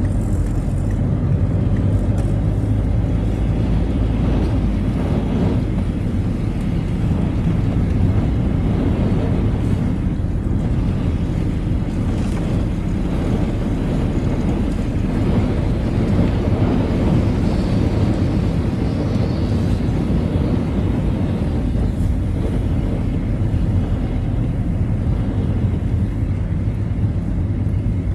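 Citroën Xsara being driven: a steady low rumble of engine and road noise that keeps going without a break.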